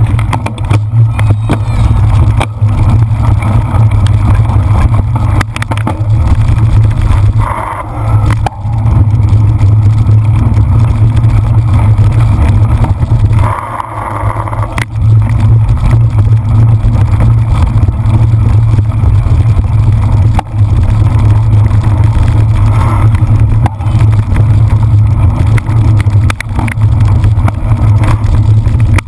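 Loud low wind rumble on the microphone of a camera carried on a cyclocross bike, with frequent small knocks and rattles from riding over rough ground. The rumble drops away briefly twice, about 8 and 14 seconds in.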